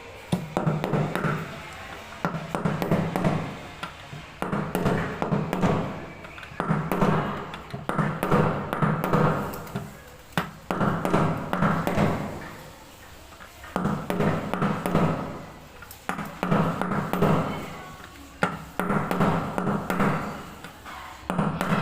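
Fully automatic washing machine drum turning in short bursts about every two seconds, each rising and fading, with knocks and clatter from the drum.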